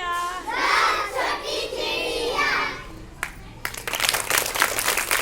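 Children's voices singing, then a burst of quick hand clapping from about three and a half seconds in.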